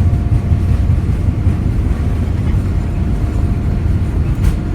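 Steady low rumble of an airliner's engines and airflow heard from inside the passenger cabin, with a faint steady whine above it and a short click near the end.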